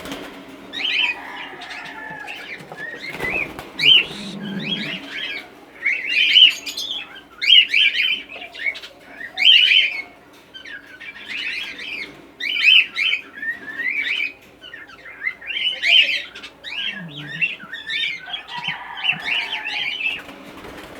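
Cockatiels and lovebirds in an aviary chirping and calling, short shrill calls repeating about once a second.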